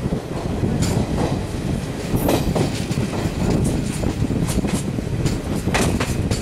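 Duronto Express passenger coaches passing at speed: a steady rail rumble with the wheels knocking over the rail joints at irregular intervals.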